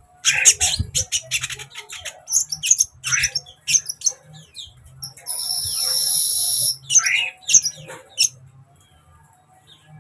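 Sunbird ('kolibri ninja') song: a rapid series of high, thin chirps and twitters, broken by one long, loud buzzy trill about halfway through, then more chirps before it fades near the end.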